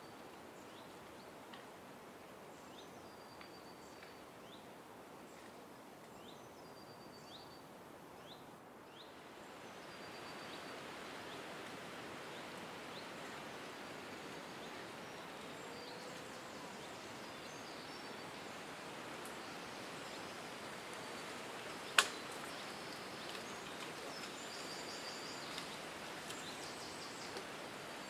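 Small birds chirping and giving short trilled calls over steady background noise, which grows louder about ten seconds in. A single sharp click about two-thirds of the way through.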